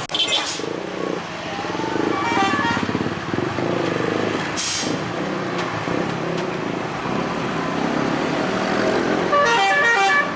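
Heavy vehicle engine running, with two horn blasts: a shorter one about two seconds in and a louder one near the end. A brief hiss comes midway.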